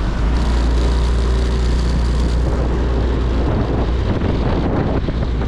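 Motorcycle on the move: a steady low engine hum under wind rushing over the microphone. About four seconds in, the hum breaks up into rougher, buffeting wind noise.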